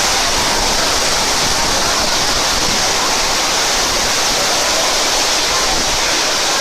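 Torrential rain pouring down in a severe hail storm: a steady, dense rushing hiss with no breaks.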